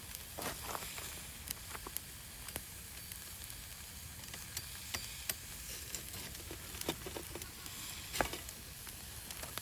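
Wood campfire burning: a steady hiss with irregular sharp crackles and pops, one louder pop near the end.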